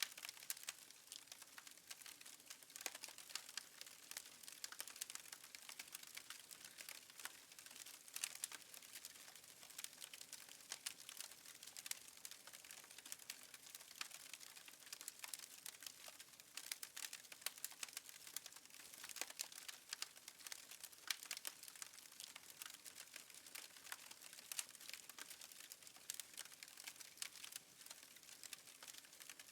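Faint crackling of a burning wood fire in a fireplace: a steady scatter of small, irregular pops and snaps over a soft hiss.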